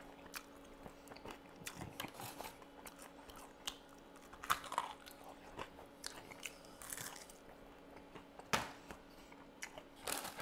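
Chewing and biting into chicken wings: faint, irregular crunches and wet mouth clicks.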